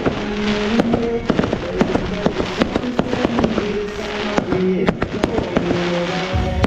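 Fireworks going off in quick succession, many sharp bangs and crackles, over music with long held notes.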